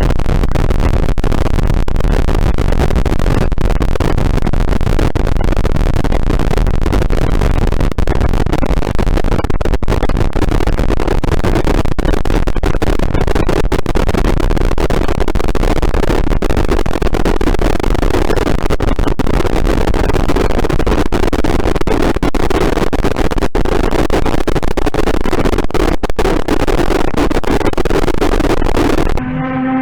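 Loud, dense wall of noise from an experimental apocalyptic noise composition, thickening in the middle pitches during the second half. Just before the end it cuts off sharply and a steady tone with many overtones takes over.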